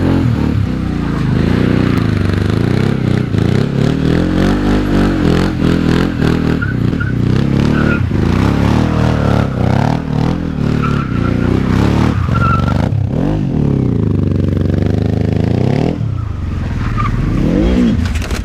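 Motorcycle-engined quad's engine revving hard and repeatedly, its pitch climbing and falling every second or two as the throttle is opened and closed.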